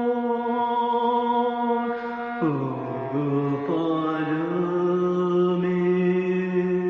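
Slow chanted vocal music of long held notes. One note is held, then it drops to a lower pitch about two and a half seconds in and settles on another long sustained note.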